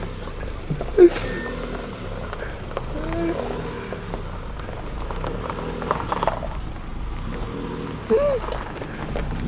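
BMW E36 325is inline-six engine idling, a steady low hum, with a few short shouts over it.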